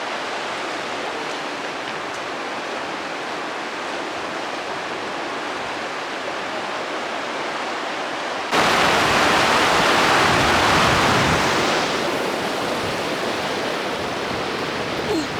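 Steady rushing of falling water from a waterfall. It becomes suddenly louder and fuller about eight and a half seconds in, easing slightly a few seconds later.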